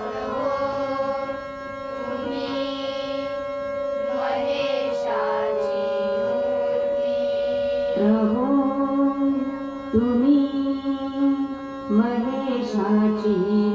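Marathi devotional bhajan: a woman singing long, drawn-out notes over a steady sustained accompaniment. From about eight seconds in, a beat falls roughly every two seconds.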